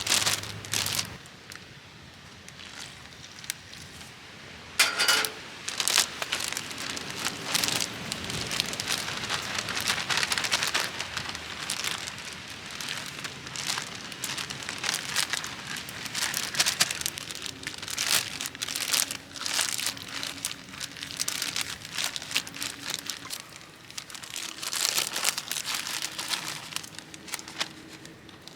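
Chicken karaage frying in oil, a steady dense sizzle with crackling and popping and a few louder bursts.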